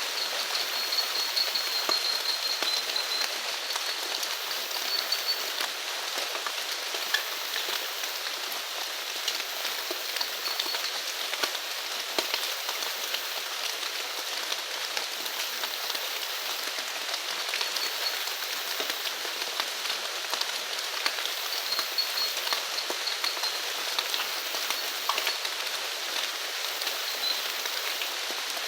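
Steady rain falling on surfaces, an even hiss dotted with the ticks of individual drops. A faint high trill comes and goes over it.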